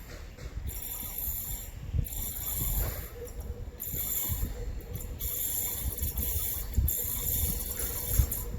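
A passing train's wheels knocking and clattering on the track through a sharp curve, with irregular heavy knocks over a high hiss.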